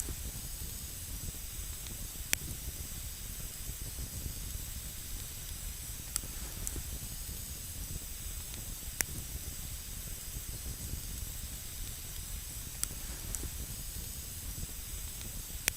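Wood campfire burning with a steady hiss, broken by about five single sharp crackles of the burning wood spread a few seconds apart.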